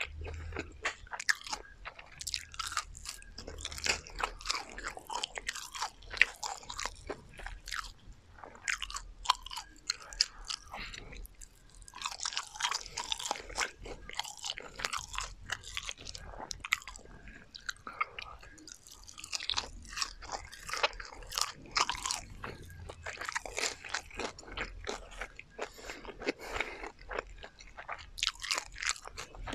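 Close-miked chewing and crunching of deep-fried garlic chicken, its crisp battered crust crackling with each bite and chew. The crunches come in dense runs with a brief lull near the middle.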